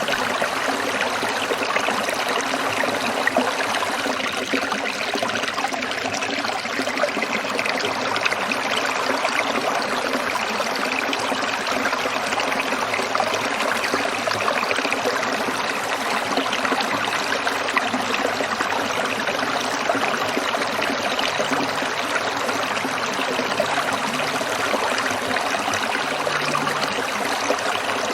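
Small stream trickling and splashing over stones in a steady, unbroken babble.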